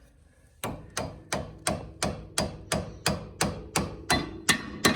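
Hammer striking metal in a steady run of about three blows a second, starting about half a second in, each blow with a short ring, as a bolt is driven out of the car's suspension.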